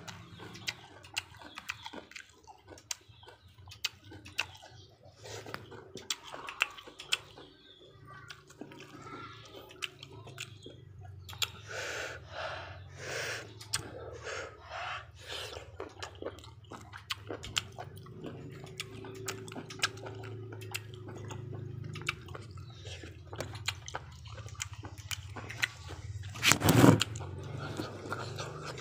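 A person eating on a close microphone: chewing and lip-smacking with many wet mouth clicks while eating small boiled octopus dipped in chili sauce, with a denser run of louder bites around the middle. One loud knock near the end.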